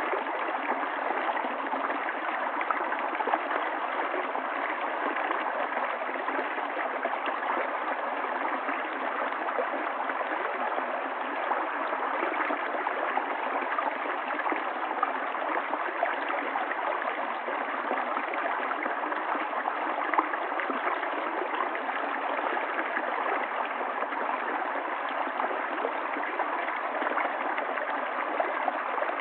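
River water flowing and gurgling over stones, a steady, even rush with small splashy bubbling throughout.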